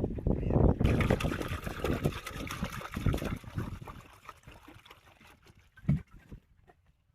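Water pouring and splashing, starting about a second in and stopping abruptly near the end, over irregular low knocks.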